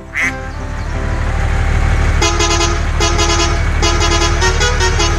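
Vehicle engine running with a steady low rumble that grows louder over the first two seconds. A horn then honks about five times in quick succession, the last blasts shorter.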